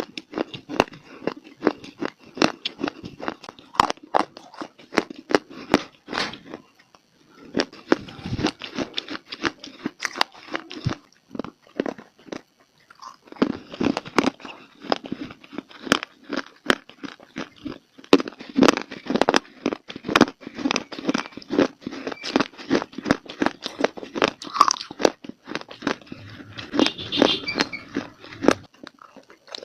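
Close-up biting and chewing of dry clay (mitti): rapid, sharp crunches, one after another, broken by a couple of brief pauses.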